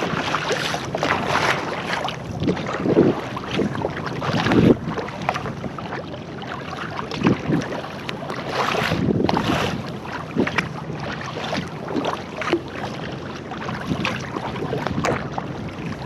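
Water sloshing and splashing around a kayak in open ocean swell, in irregular surges every second or two, with wind rumbling on the microphone.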